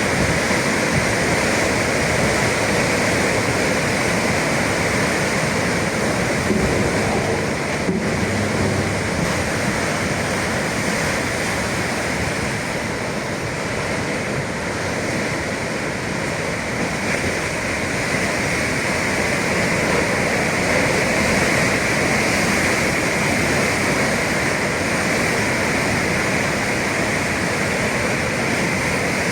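Atlantic Ocean surf: breaking waves making a continuous, even rush of noise.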